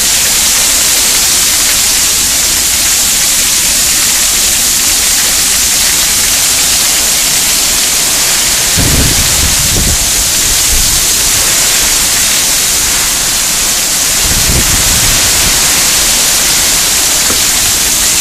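Heavy tropical-storm rain pouring down with water running off a roof edge: a loud, steady, dense hiss. Two brief low rumbles come through, about nine and fifteen seconds in.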